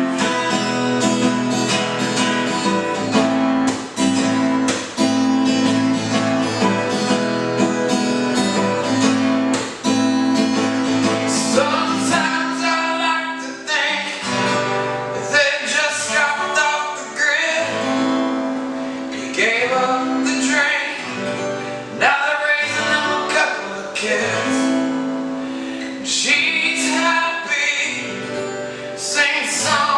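Acoustic guitar strummed steadily, with a man singing an original song over it from about twelve seconds in.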